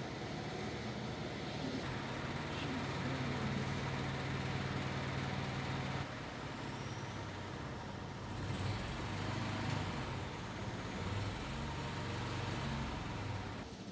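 A vehicle engine running steadily with a low hum, its pitch and strength shifting a few times.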